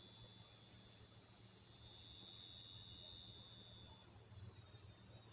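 High-pitched, steady insect buzzing that swells and then fades away near the end.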